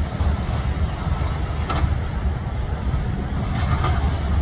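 Low, steady rumble of a distant Union Pacific diesel locomotive approaching at the head of a loaded freight train, mixed with wind buffeting the microphone.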